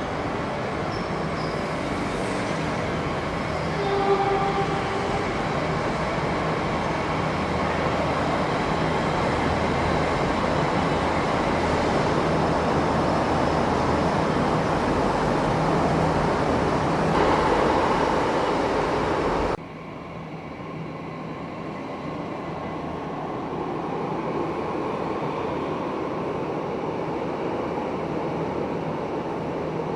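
Metro train running, a steady rumble and hiss of the train in motion. A short pitched tone sounds about four seconds in. About twenty seconds in, the sound drops abruptly to a quieter rumble that slowly grows louder again.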